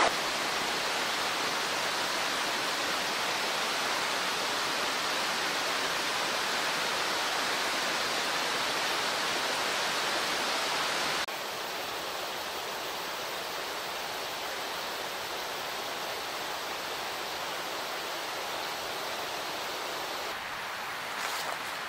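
Steady rushing noise of flowing water, which drops abruptly in level about eleven seconds in.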